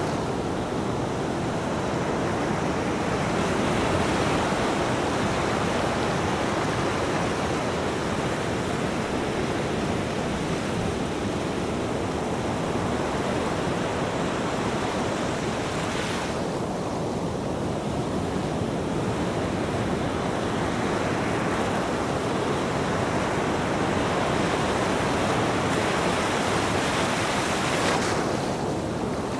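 Ocean waves breaking on a beach: a continuous wash of surf, with a brighter hiss as a wave breaks about halfway through and again near the end.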